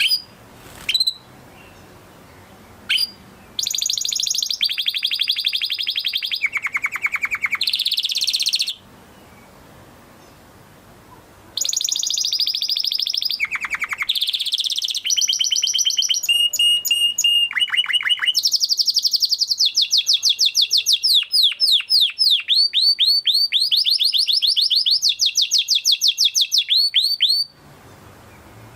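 Domestic canary singing: a few short chirps, then two long song phrases built of fast trills of repeated high notes that change speed and pitch from one trill to the next, with a pause of a few seconds between the phrases.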